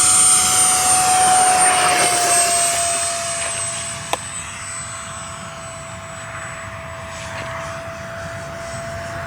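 Freewing F-35 model jet's 70mm in-runner electric ducted fan at high power, a steady high-pitched whine that grows fainter after about three seconds as the jet moves away. A single sharp click about four seconds in.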